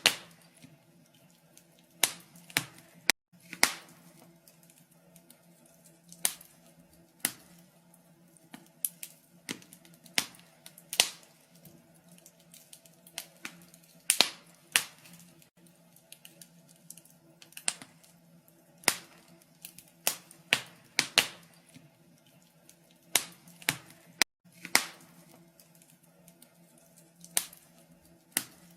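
Wood fire crackling in a fireplace: irregular sharp pops and snaps, a few a second and of uneven loudness, over a faint steady low hum.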